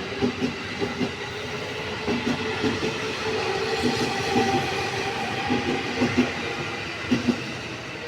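JR East E231 series electric commuter train pulling out and running past, its wheels clacking over rail joints in quick pairs, with a steady motor whine. The sound eases off near the end as it draws away.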